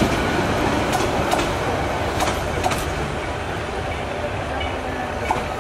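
Bangladesh Railway passenger coaches rolling past on the track, with a steady rumble and irregular clicks from the wheels. The noise eases a little as the last coach goes by.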